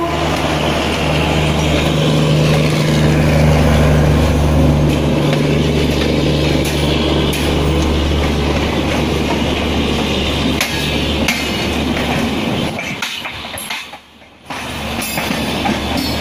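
Train running on rails: a loud, steady rumble of wheels on track with a low hum, easing off after about ten seconds. It breaks off almost to silence for a moment about fourteen seconds in, then resumes.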